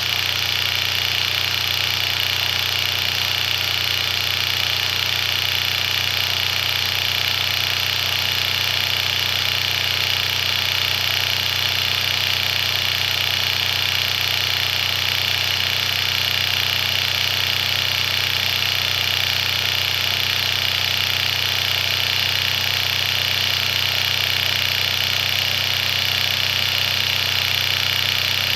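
Ingersoll Rand inline seven-cylinder two-stroke diesel engine running at a steady speed, with a strong low-pitched drone and no change in pace.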